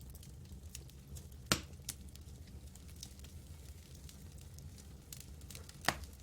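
Campfire crackling: scattered small snaps, with two loud pops of burning wood, one about a second and a half in and one near the end, over a low steady rumble.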